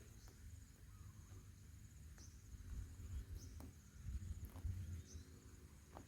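Faint high-pitched insect trill that breaks off and starts again about once a second, over a low rumble with a few light clicks.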